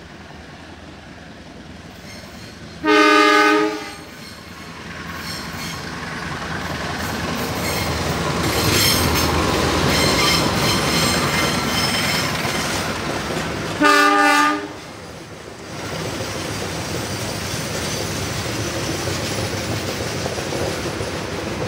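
CC 201 diesel-electric locomotive hauling a passenger train past: two horn blasts about a second long, roughly eleven seconds apart, over a rising din of engine and wheels with rail clatter as the locomotive goes by, then the steady rolling of the carriages.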